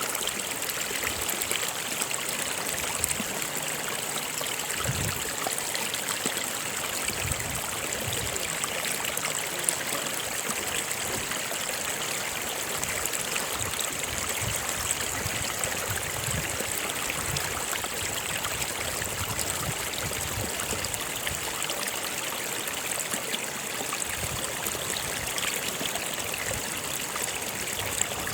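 A stream of water running steadily, an even rushing with trickling.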